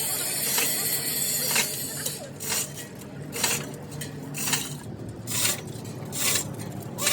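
Metal being worked by hand: a couple of seconds of dense metallic clinking and scraping, then short rasping strokes repeated about once a second.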